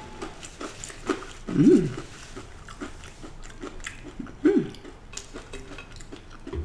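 Close-miked chewing of a crisp, panko-breaded deep-fried scallop: many small crunching clicks of the mouth, with two short hums of enjoyment about one and a half seconds and four and a half seconds in.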